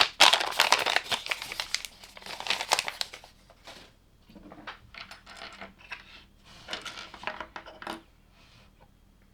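Crinkling and rustling of a plastic LEGO parts bag, dense and loud for the first three seconds, then quieter scattered rustles and small clicks.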